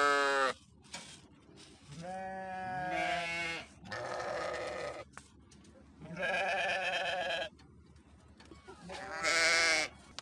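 Sheep bleating, about five separate calls with short pauses between them, some of them rough and wavering.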